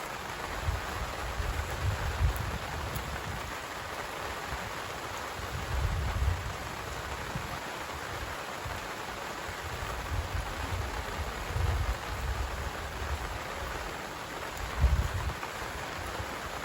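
Steady rain falling, an even hiss, with irregular low rumbles every few seconds that are the loudest moments.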